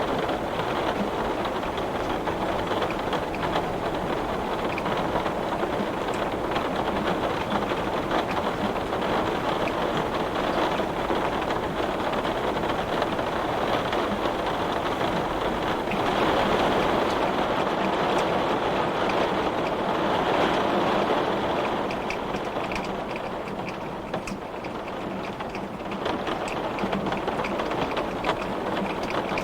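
Heavy rain pattering on window glass, a dense steady patter that swells about halfway through and eases for a few seconds before building again.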